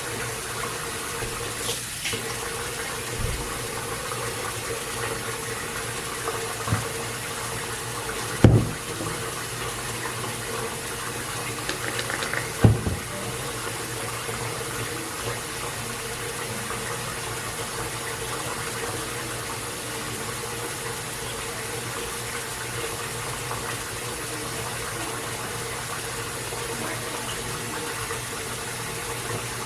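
Bathroom sink faucet running steadily, with two short knocks about eight and twelve seconds in.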